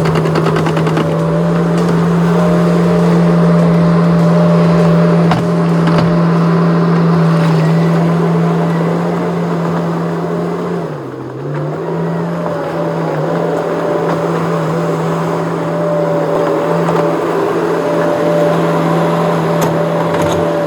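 Skid steer engine running steadily at working speed, its pitch and loudness dipping briefly about eleven seconds in before recovering.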